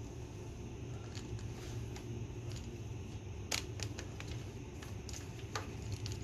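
Scattered sharp clicks and taps of small parts and tools being handled while carburetor hoses are connected on an ATV, over a steady low hum.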